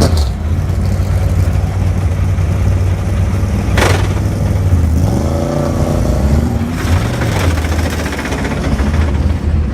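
Race car engines running on track, with a steady low drone and engine pitch rising and falling about halfway through. A sharp crack about four seconds in.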